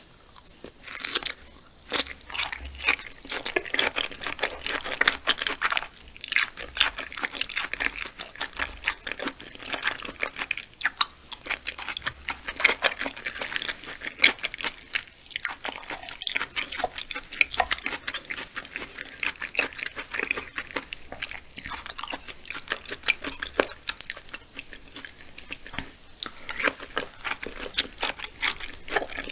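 Close-miked mouth sounds of chewing raw yellowtail sashimi: a steady run of soft, wet clicks and smacks, starting about a second in.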